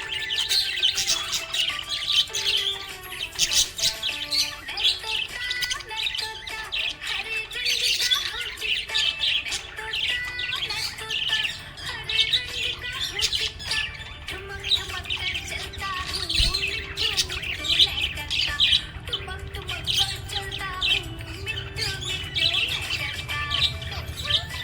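Budgerigars chirping and chattering continuously in quick, dense runs of high chirps, over background music with slow held notes.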